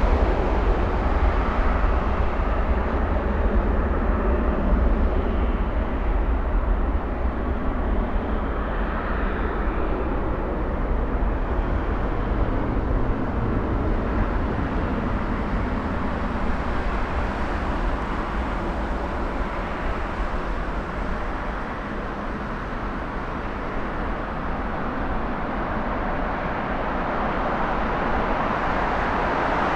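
Jet airliner engines rumbling, a steady deep roar that eases a little about two-thirds of the way through and builds again near the end.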